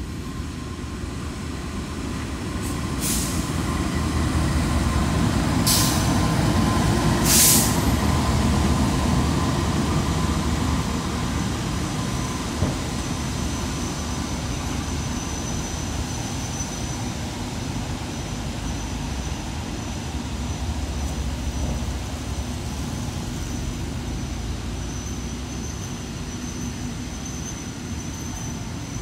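The Sembrani passenger train arriving, hauled by a diesel locomotive. The engine and rolling rumble build over the first several seconds, with three short hisses about 3, 6 and 7 seconds in, then hold steady as the coaches roll slowly past. A thin, high, steady squeal starts near the end as the train slows at the platform.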